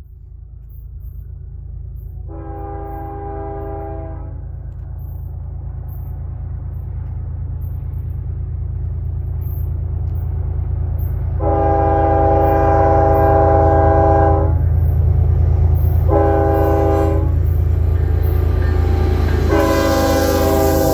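Freight train's diesel locomotives rumbling low and growing louder as it approaches, while the lead locomotive's air horn sounds long, long, short, long: the grade-crossing signal. The last long blast is still sounding at the end.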